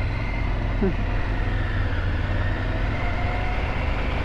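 Triumph Tiger 900 GT's three-cylinder engine running steadily, with a short falling chirp about a second in.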